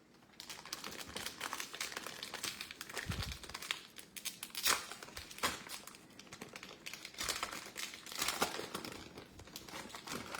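Plastic wrapper of a trading card pack crinkling and tearing as it is opened and handled. It makes irregular crackles throughout, with louder bursts about halfway and near the end.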